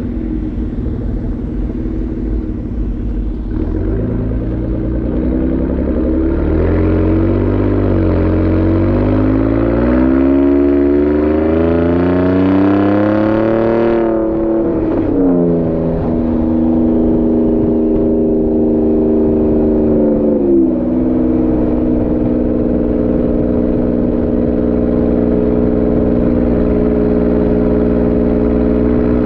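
Ford Raptor's twin-turbo V6 through a Borla Atak exhaust while driving: the exhaust note climbs steadily under acceleration, drops suddenly with a gear change about 14 seconds in, steps down again around 20 seconds, then holds steady at cruise.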